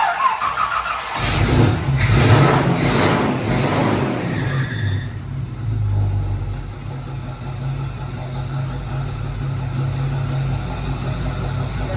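Chevy 327 small-block V8 starting for the first time after an engine swap: a second of starter cranking, then it catches, revs up for a few seconds and falls back to a steady idle.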